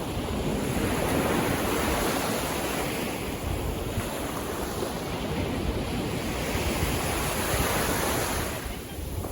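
Sea waves washing in surf, a continuous rushing that swells and eases, with wind buffeting the microphone.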